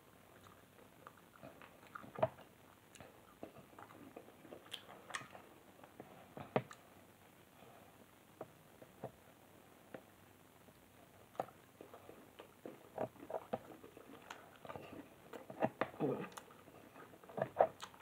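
A person eating: wet chewing and lip smacks, with sharp clicks here and there of a metal fork against a plastic food container, and a short voiced hum about two-thirds of the way through.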